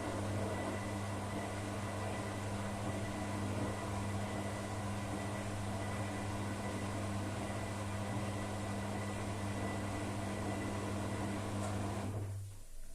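Beko washing machine running its spin test: a steady motor hum and whir that cuts off about twelve seconds in.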